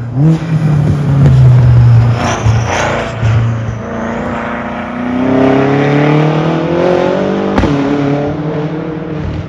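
Tuned 2013 BMW M6's twin-turbo S63TU V8, running loud through catless downpipes, a resonator delete and a valved axleback exhaust. The note breaks off and picks up again a few times in the first four seconds. It then climbs steadily in pitch under acceleration for about three seconds, ending in a sharp crack, after which the revs fall.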